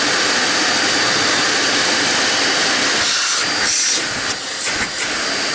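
TriStar MG2 canister vacuum's motor running at full speed: a steady rush of air with a faint high whine. A few short knocks of handling come in about four seconds in.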